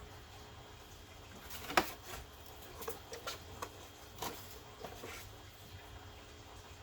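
Scattered sharp clicks and light knocks of car parts being handled and pulled free by hand, the loudest about two seconds in, then several smaller ones.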